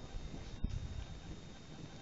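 Faint steady background hiss with two soft low bumps, one at the start and one just over half a second in.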